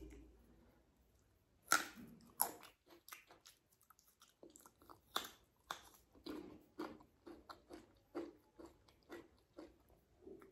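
A person chewing a mouthful of rice and egg curry eaten by hand, close to the microphone: a run of short, wet mouth clicks a few per second that starts about two seconds in.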